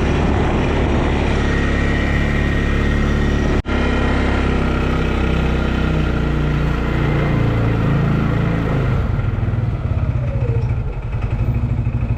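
Quad bike engine running steadily under way, with a brief break about three and a half seconds in. Near the end the engine note drops and settles into a lower, pulsing idle.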